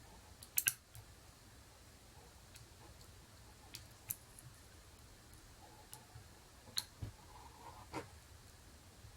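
Faint, scattered clicks of a hook pick and tension wrench working the pins of a pin-tumbler lock fitted with spool pins: a close pair of clicks just after the start, then single clicks every second or so.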